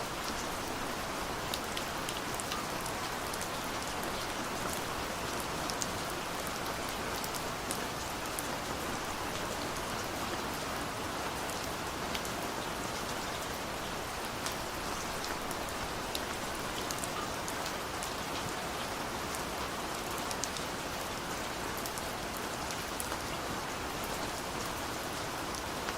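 Steady rain falling, an even hiss with many individual drops tapping on surfaces.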